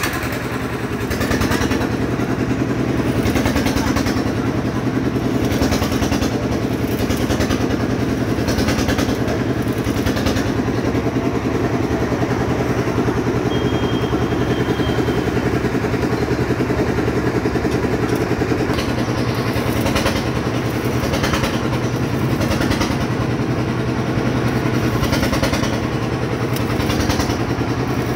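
An engine running steadily at an even speed, with a fast, even pulse.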